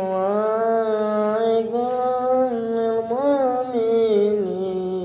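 A child singing sholawat solo, unaccompanied, in long held notes with slow ornamented pitch turns.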